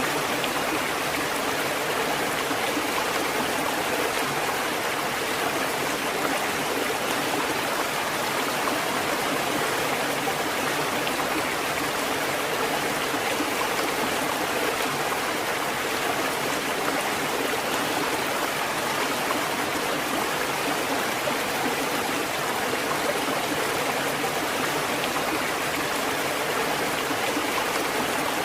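Water fountain running, its water splashing and trickling in a steady, even stream with no breaks or knocks.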